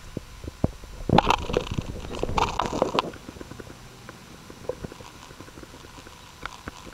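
Sony NEX-5N with its 18-55mm zoom lens making irregular clicks and knocks as the zoom is worked and the lens barrel extended, with two bursts of rapid clicking a second or two in and faint scattered ticks after. This is the clicking noise that the owner believes comes from the zoom lens.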